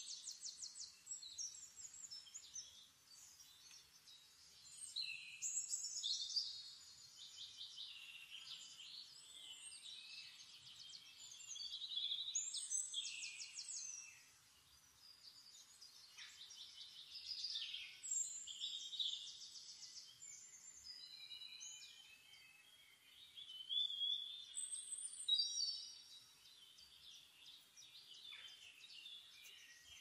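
Songbirds singing in repeated bursts of rapid, high trills and chirps every few seconds, with quieter spells between.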